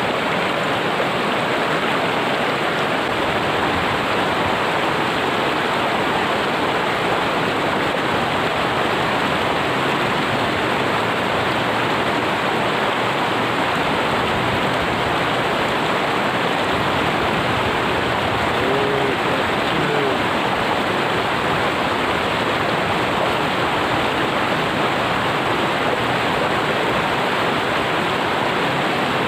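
Steady rush of a river's flowing water, running high after rain.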